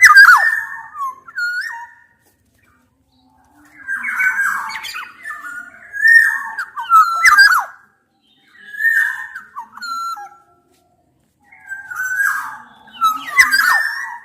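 Black-naped oriole (kepodang) calls in four bursts, each mixing fluted, gliding whistles with harsh, rasping squawks, separated by short gaps of silence.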